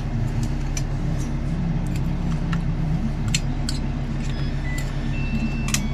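Small metal clicks and clinks from handling nitro RC exhaust parts by hand, over a steady low hum. Near the end come a few short high beeps, a charger signalling that the battery has finished charging.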